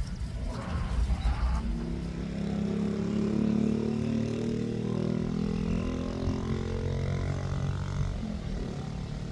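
A motor engine running steadily for several seconds over a low rumble, fading near the end.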